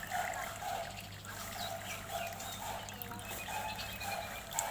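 Birds calling in an aviary: a run of short repeated calls, roughly two a second, with a few thin higher chirps over them.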